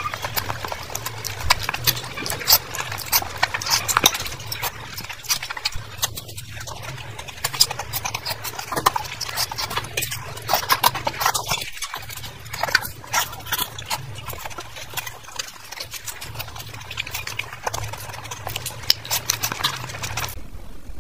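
Close-miked chewing, with lip smacks and mouth clicks, of someone eating, and now and then a steel spoon clinking and scraping on a steel plate.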